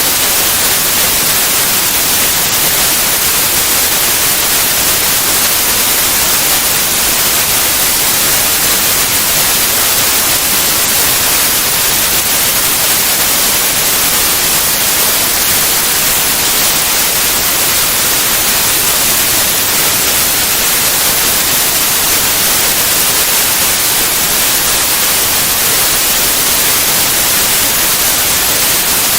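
Steady white noise: an even, unchanging hiss, brightest in the treble, with no variation.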